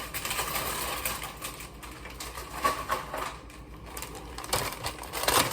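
Rattling and rustling of a plastic package of white Oreo cookies being opened and handled, with a quick run of small clicks and crinkles.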